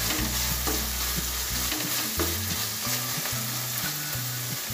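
Crumbled paneer and chopped carrot sizzling in a non-stick wok as a slotted spatula stirs and presses it, with scattered scraping ticks of the spatula on the pan. The paneer is being fried to drive off its extra moisture. Low steady tones that step between pitches sit underneath.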